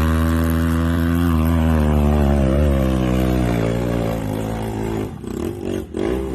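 Dirt bike engine working hard under throttle on a muddy uphill climb, then the revs drop about three and a half seconds in and the throttle chops on and off near the end.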